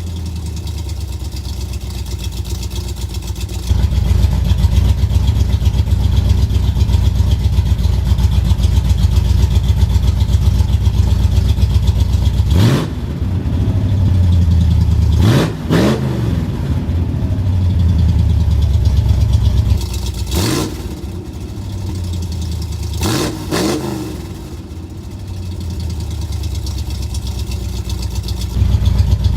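A 1974 Ford F-100's 302 V8, fitted with headers and a cut exhaust, idling loud and choppy after a cold start, sounding like a motorcycle. Partway through, the throttle is blipped several times, some in quick pairs, each a short rising rev.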